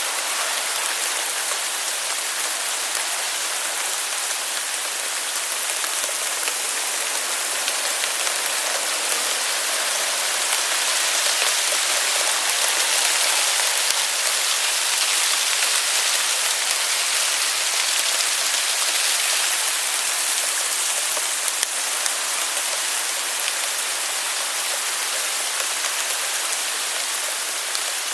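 Hail falling on outdoor surfaces: a dense, steady hiss of countless small hits, heavier around the middle and easing slightly near the end.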